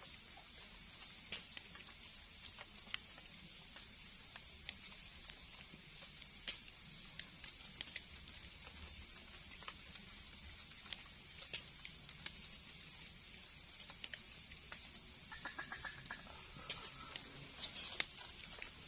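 Quiet bamboo-forest ambience: a faint steady high hiss with small ticks and clicks scattered irregularly throughout. About fifteen seconds in come a quick run of clicks and a brief high chirping call.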